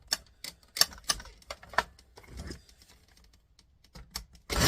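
Scattered clicks and light rattles of small plastic and metal parts being handled as an electronics unit is taken apart by hand. A quiet pause follows, then a louder, rough clatter just before the end.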